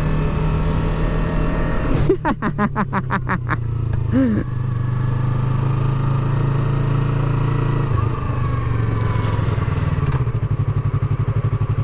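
Yamaha R3 parallel-twin motorcycle engine running at speed, with a steady engine note. A rhythmic pulsing breaks in about two seconds in and again near the end.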